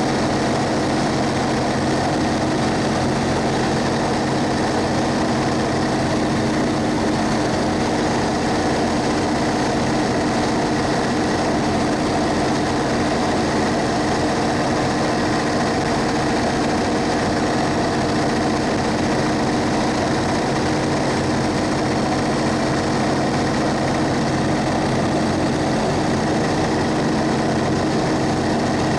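Cummins ISB 6.7-litre diesel of a Thomas Saf-T-Liner C2 school bus running steadily, heard from inside the bus, its pitch holding even with no revving.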